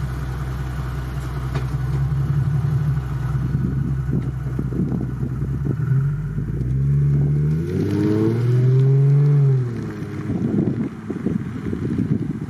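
Lexus IS350 F-Sport's 3.5-litre V6 with aftermarket headers and high-flow cats under gentle acceleration. The exhaust note holds steady at first, rises in pitch about six seconds in, swells and eases back, then falls away near the end into wind noise on the microphone.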